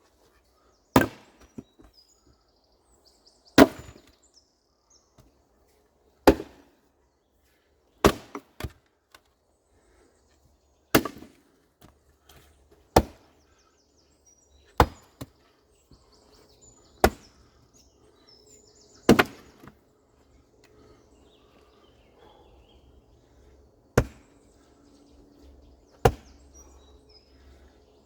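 An axe splitting firewood by hand, with about eleven sharp, woody strikes, one every two to three seconds. A lighter knock follows some of them.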